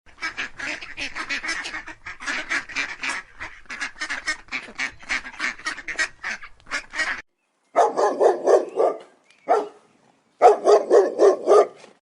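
Waterfowl calling: a fast, dense run of short cackling calls, then after a brief gap louder rhythmic honks in two bouts.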